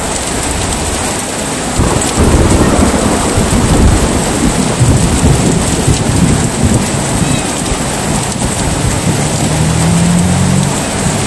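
Steady heavy rain with thunder: a loud low rumble builds about two seconds in and rolls on for several seconds. A low steady drone joins near the end.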